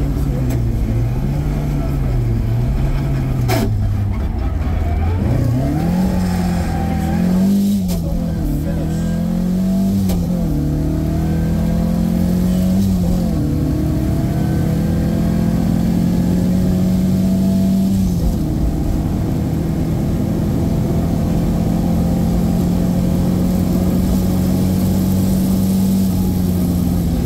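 Opel Manta rally car's engine heard from inside the cockpit while driving flat out on a stage, its pitch swinging up and down over and over with gear changes and throttle lifts for the first half, then holding steady at high revs.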